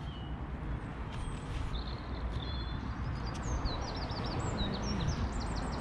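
A small songbird singing a run of quick, high chirps and short trills, starting about two seconds in, over a steady low rumble.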